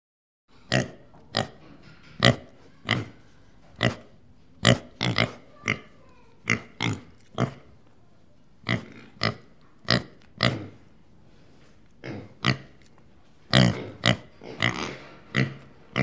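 An animal's short, sharp calls, repeated about once or twice a second, beginning half a second in.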